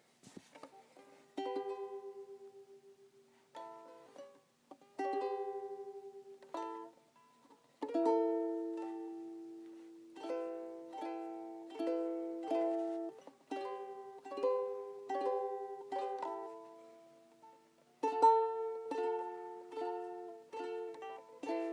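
Ukulele chords strummed slowly, each left to ring out and fade, with short pauses between groups of chords.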